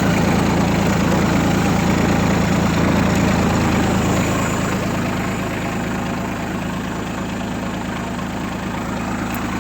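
Ford 1520 compact tractor's three-cylinder diesel engine idling steadily through its new muffler, easing off slightly in level about halfway through.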